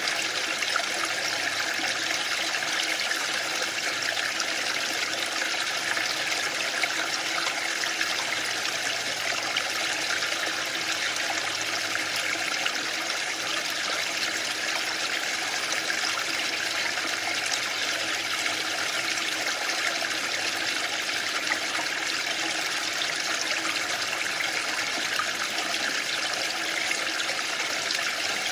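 Waterfall: the steady rush of falling water, an even hiss with no swells or breaks.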